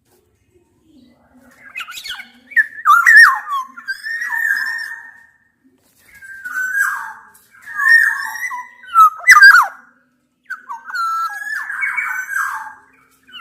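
Black-naped orioles calling: several phrases of gliding, fluty whistles mixed with rougher notes, with short pauses between them.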